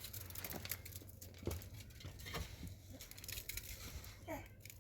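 Faint rustling and scattered light clicks of things being handled.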